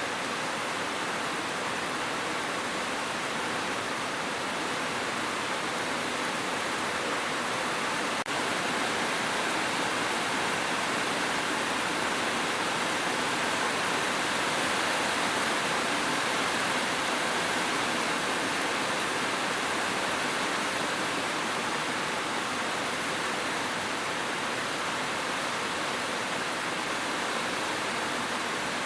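Steady rain, an even hiss with no change in strength, broken only by a faint click and a momentary dip about eight seconds in.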